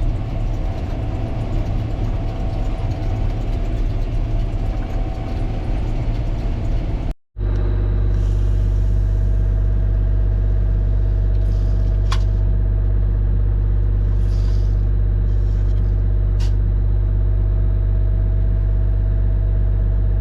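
Gleaner R72 combine running steadily while harvesting rye: a low, even engine drone with steady humming tones. The sound cuts out for a split second about seven seconds in, then resumes steadier.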